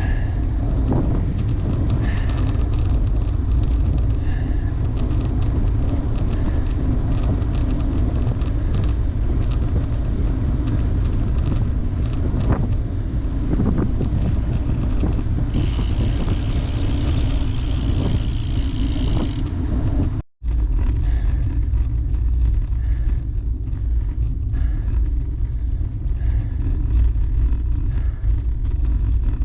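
Steady wind rush and road rumble while riding a road bike, with many small ticks from bumps. About halfway through, a brighter, higher buzz joins for roughly four seconds. A moment later the sound cuts out for an instant.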